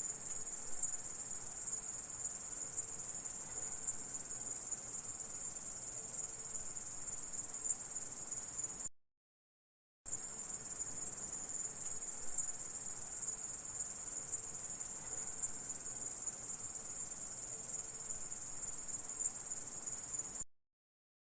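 Grasshopper stridulating: a steady, high-pitched, continuous chirring that breaks off for about a second midway, starts again, and stops shortly before the end.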